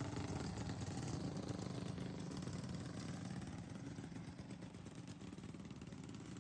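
Racing lawnmower engine running steadily with a fast, even firing beat, easing off a little in the second half.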